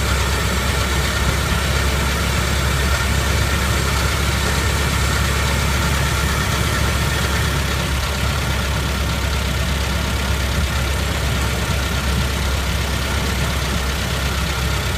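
1912 Ford Model T's four-cylinder side-valve engine running steadily at road speed, mixed with a constant rush of wind and road noise around the open touring car.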